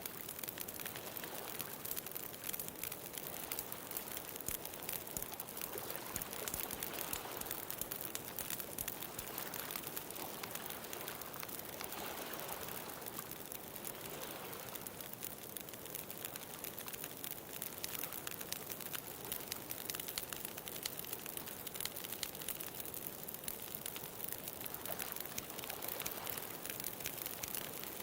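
Wood bonfire crackling with a dense stream of small pops, over ocean surf that swells and falls back a few times.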